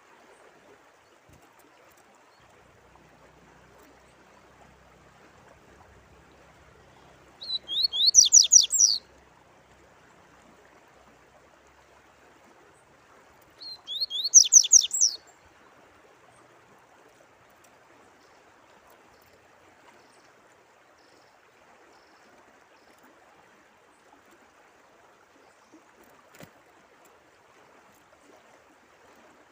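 A songbird singing two short phrases of quick, downward-sweeping whistled notes, about six seconds apart, over a steady hiss of running water.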